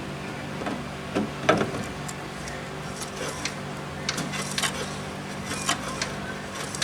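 Scattered light clicks and knocks of small metal engine parts being handled during magneto work, over a steady low hum in the workshop. The loudest knock comes about one and a half seconds in.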